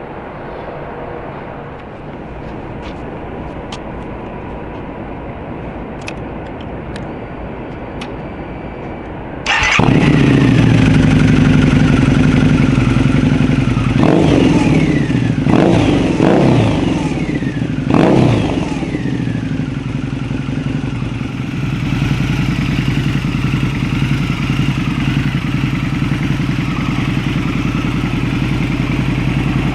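Custom Harley-Davidson V-Rod Night Rod's V-twin engine starting suddenly about a third of the way in after low background noise. It is blipped up and down four times in quick succession, then settles into a steady idle.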